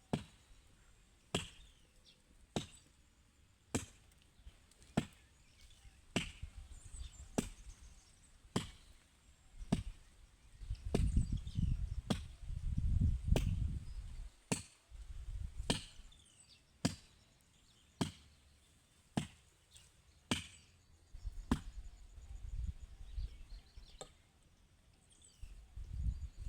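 A hand tool chopping in steady, even strokes a little over a second apart, each a sharp strike, with a low rumble for a few seconds around the middle.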